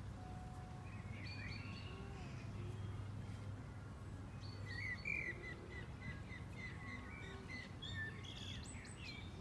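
Small songbirds chirping: a few scattered calls, then a quick run of short chirps about halfway through, over a steady low background rumble.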